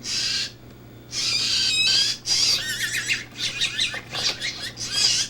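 Blue jay giving a string of harsh, raspy squawks while being fed cat food. The calls come one after another, several with quick pitch slides, busiest in the second half.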